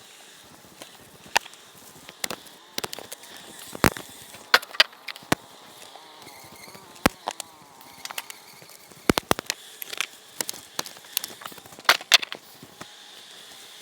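Honey bees buzzing around an opened hive, with many irregular sharp clicks and knocks from the hive's wooden parts being handled.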